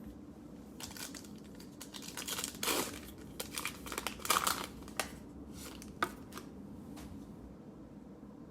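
Cellophane wrapper of a trading-card cello pack being torn open and crinkled by hand. The crackling comes in uneven bursts for about five seconds, loudest in the middle, with a few sharp snaps near the end.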